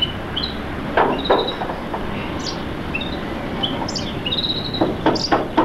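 Small birds chirping over and over in short, high notes. A few sharp knocks come about a second in and again near the end, over a steady background hiss.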